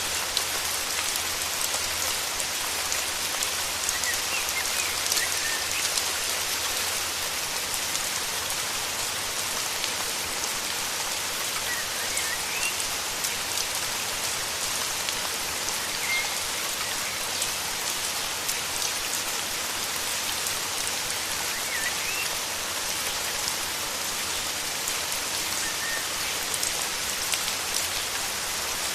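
Steady heavy rain, with individual drops striking close by. Faint short bird chirps sound a handful of times over it.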